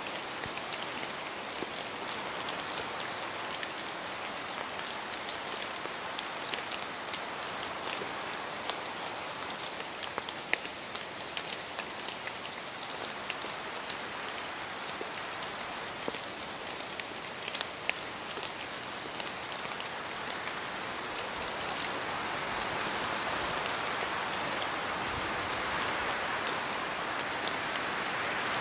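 Steady rain falling, with many separate drop hits over an even hiss; it swells a little louder in the last few seconds.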